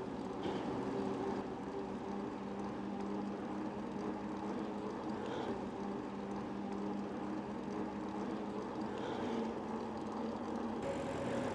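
A motor running steadily at an even pitch, with a slight shift in its tone near the end.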